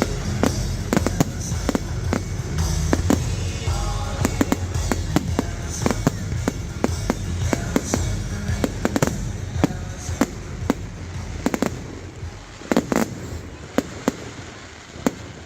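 Firework display: a rapid, continuous string of bangs and crackles over loud music, thinning out to scattered bangs in the last few seconds.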